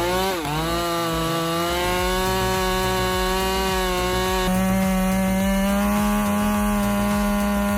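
Chainsaw engine running at high revs in a cut. Its pitch dips briefly as the chain bites, then holds steady at full throttle.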